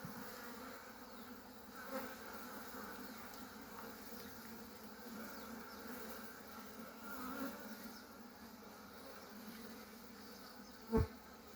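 Honeybees from an opened hive buzzing in a steady hum, a disturbed colony during frame handling. A single short knock comes near the end.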